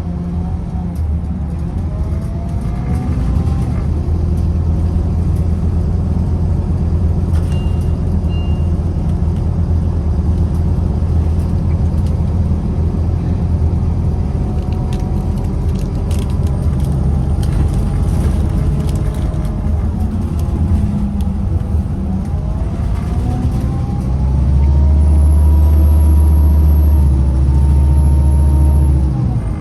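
Scania CK320UB Citywide bus in motion: its diesel engine drones steadily, with the pitch rising and falling several times as the bus accelerates and slows. It grows louder and heavier for the last few seconds, then drops off suddenly.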